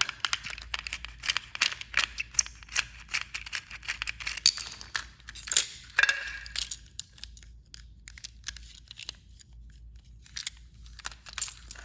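Quick plastic clicks and rattles of a battery-powered toy train being handled and fiddled with. The clicks come thick and fast for the first six or seven seconds, then thin out to scattered taps.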